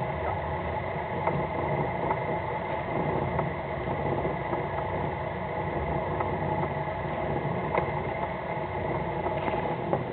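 Fishing boat's engine running steadily, with a few faint clicks.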